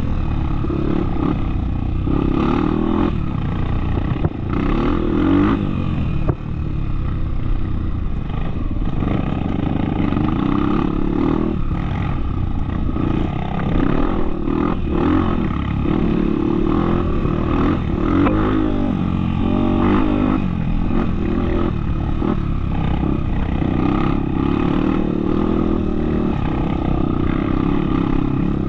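Trail motorcycle engine running under way, its pitch rising and falling with the throttle as it rides off-road, with a couple of brief dips about four and six seconds in.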